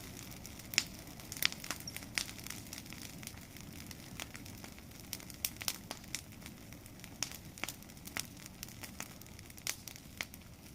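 Bonfire of cleared field debris crackling, with sharp irregular pops, a few a second, over a low steady noise of the fire.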